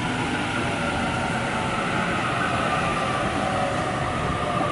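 Sydney electric suburban train running through the station: a steady rumble with a high motor whine held at an even pitch.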